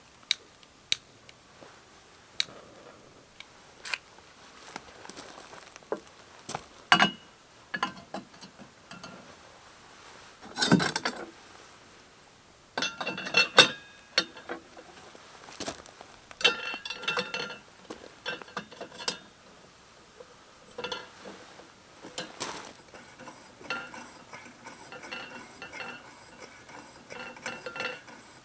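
Metal utensils and cookware clinking and knocking in scattered strikes, some with a short metallic ring, as camp dishes are handled.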